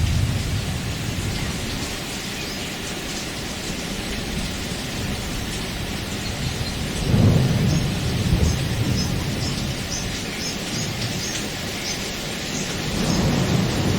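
Steady heavy rain with low rolling thunder rumbles, the strongest about seven seconds in and another building near the end.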